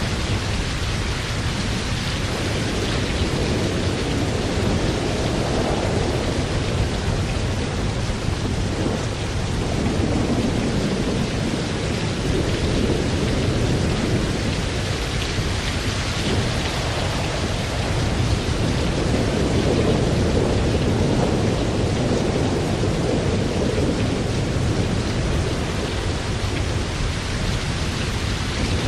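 Steady heavy rain with low thunder rumbling in slow swells that rise and fade every few seconds.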